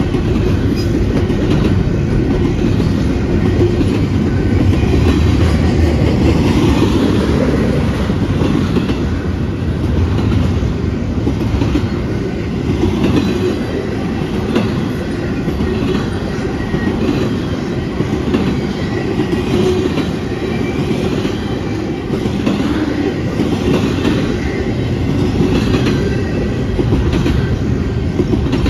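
Double-stack intermodal well cars of a long freight train rolling past at speed: a steady loud rumble of steel wheels on rail with repeated clickety-clack from the wheels.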